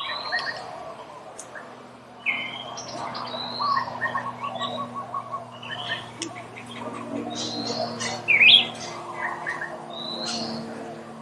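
Several birds chirping and calling in a mix of short whistled notes and chirps, with one louder zigzagging call about eight seconds in. A faint steady low hum lies underneath.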